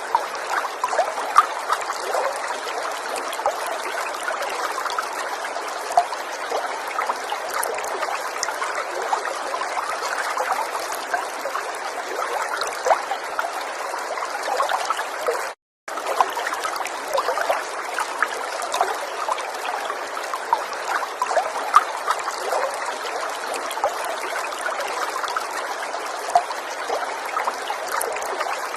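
River water flowing and trickling steadily, with frequent small splashes. The sound drops out completely for a split second about halfway through.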